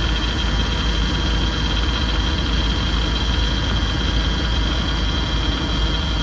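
2001 Dodge Ram 1500's 5.2 Magnum V8 idling steadily, with a steady high-pitched whine over it while the power steering fluid is low.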